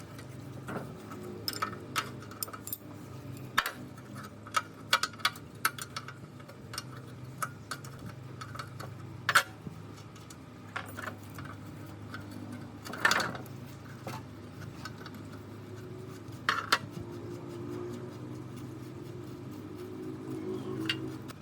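Metal parts and hand tools clinking and tapping at irregular intervals, with a few louder knocks, over a steady low hum.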